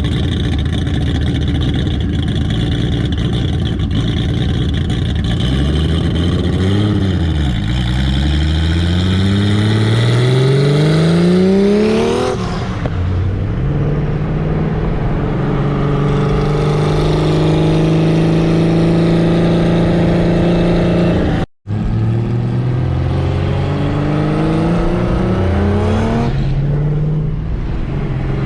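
Turbocharged RB straight-six engine in a Datsun 240Z accelerating hard: the pitch climbs steadily for several seconds, drops abruptly about twelve seconds in, then holds high through sustained pulls with another dip near the end. The sound cuts out for an instant about two-thirds of the way through.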